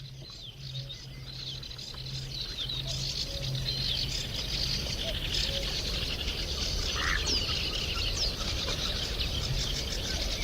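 Marshland bird chorus: many small birds chirping and trilling, growing denser and louder, over a faint low hooting tone that comes and goes.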